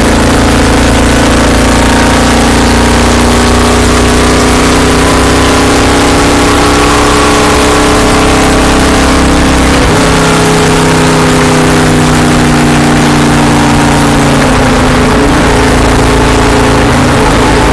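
Stock car's V8 engine running hard at speed, very loud from inside the cockpit. The engine note holds steady, with its pitch shifting a little midway and again later.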